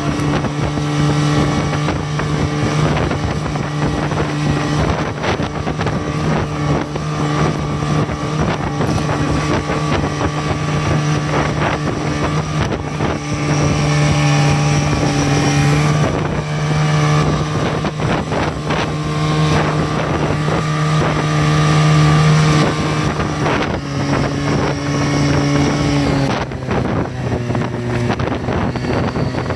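Buran snowmobile engine running at a steady speed, with wind on the microphone. Its pitch drops to a lower speed near the end.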